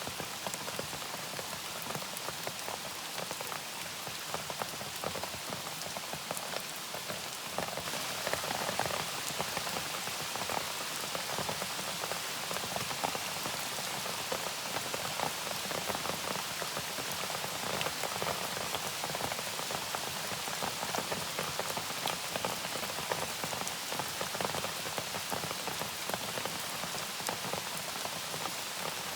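Steady rain falling, a dense hiss of many small drops striking a surface, a little heavier from about eight seconds in.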